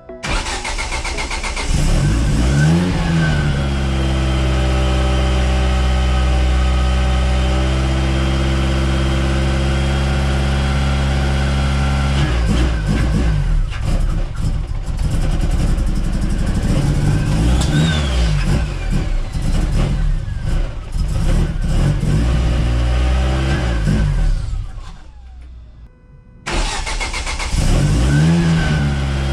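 Rebuilt turbocharged Ford Zetec four-cylinder engine firing up and flaring in revs. It then runs with an idle that keeps climbing and wavering, because the drive-by-wire throttle body's opening can't be controlled. About 25 seconds in it dies away and stops, then is restarted a second later with another rev flare.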